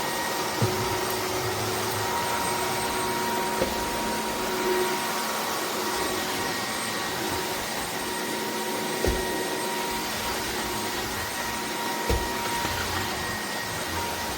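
Dreame cordless wet-and-dry vacuum-mop running steadily in automatic mode: a constant motor whine over airflow hiss. A few dull knocks come through as it is pushed over the floor.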